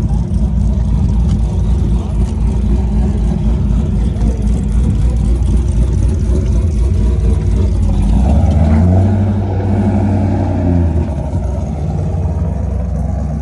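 Vehicle engine running, revving up about eight seconds in and easing off again near eleven seconds.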